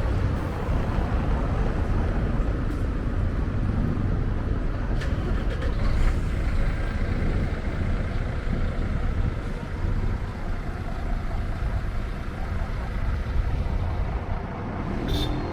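Street traffic passing: a steady rumble of cars and buses on a busy city avenue, with a short high-pitched sound near the end.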